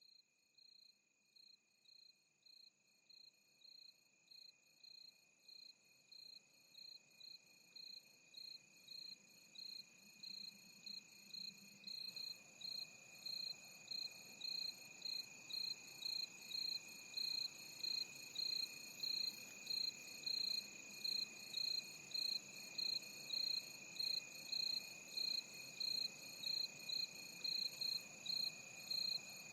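Crickets chirping, a regular pulsed chirp about twice a second over a steady high trill, growing louder over the first fifteen seconds or so and then holding steady.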